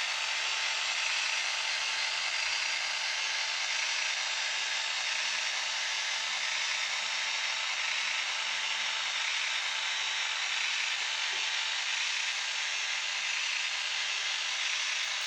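N-scale model train running: a steady whirring hiss from the locomotive's motor and the wheels on the track, with a faint thin whine.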